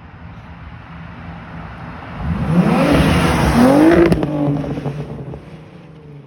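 Audi B5 S4's twin-turbo 2.7-litre V6 through an XS-Power twin-catted 200-cell exhaust, idling, then revved twice in quick succession about two seconds in before dropping back to idle. A few sharp cracks come at the top of the second rev.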